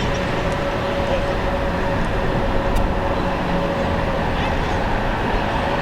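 Steady noise of a jet airliner's engines on final approach, with a held tone in the noise.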